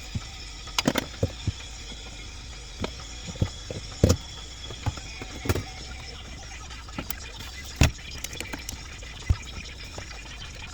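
Irregular clicks and knocks of parts and tools being handled during work on the water heater, the loudest about four and eight seconds in, over a steady mechanical hum.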